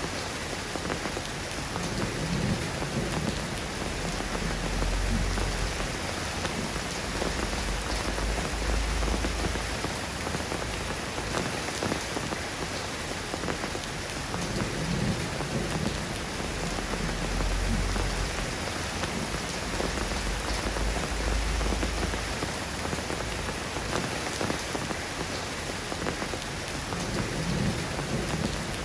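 Steady soft rain falling and pattering, a constant even hiss, with deep low rumbles swelling and fading several times.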